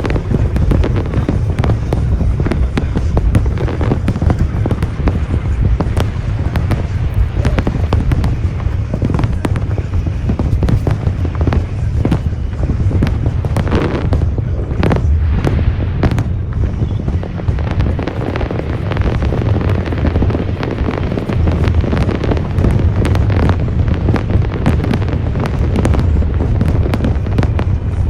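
Aerial fireworks going off continuously: a dense run of bangs and crackling over a steady low rumble.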